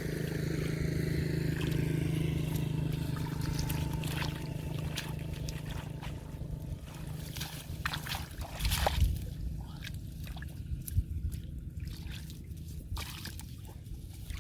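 Shallow water sloshing and splashing, with scattered sharp splashes and a steady low hum that fades after the first few seconds.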